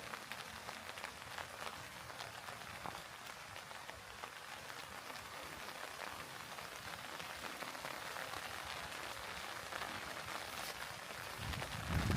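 Steady rain falling, a dense patter of small drops, with a few low thuds near the end.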